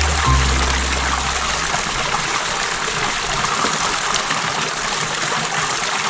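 Steady rushing of running water, even and unbroken, with background music fading out in the first two seconds.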